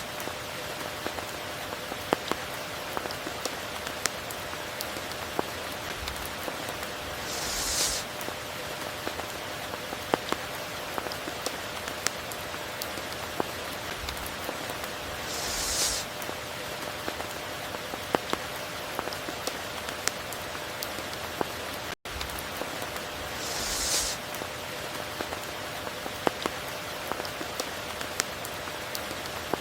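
Steady tropical rain falling, with individual drops ticking sharply on a surface. A short hissing swell rises and falls about every eight seconds, and the sound cuts out for an instant about two-thirds of the way through.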